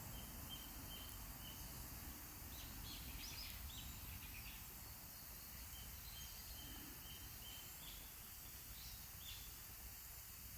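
Faint outdoor ambience: a steady low rumble and hiss, with a bird giving series of short, evenly spaced high chirps and a few brief higher calls.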